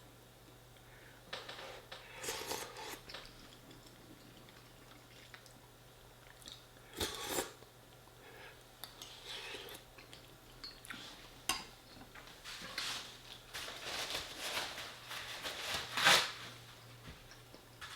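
A metal spoon clinking and scraping against a dish, scooping up the oily juice from a lasagne, with eating sounds in between. The clinks come sparsely at first, then quicken in the last third, the loudest scrape just after the middle of that stretch.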